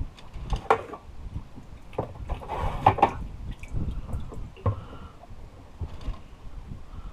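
Wet squishing and small clicks of hands handling fishing tackle and cut mullet bait, with a few louder rustles near the start and about three seconds in.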